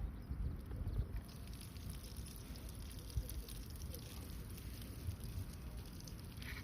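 Chicken pieces frying in hot oil inside a hot sandwich maker over a campfire: a steady sizzle with faint light crackles.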